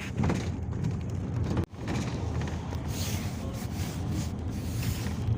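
Cabin noise inside a moving Peugeot Boxer minibus: steady low engine and road rumble. The sound cuts out for an instant about a second and a half in.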